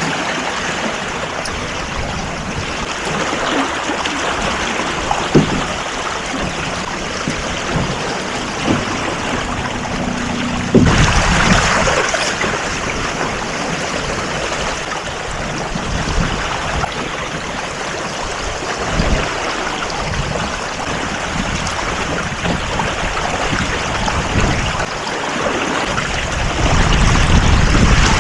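Water rushing and splashing along a small sailing boat's hull, mixed with wind noise on the microphone. It surges louder about eleven seconds in and again near the end.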